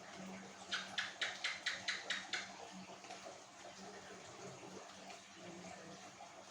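Steady rain falling, with a faint low hum under it. About a second in, seven sharp, evenly spaced ticks come in a quick run of about four a second, louder than the rain.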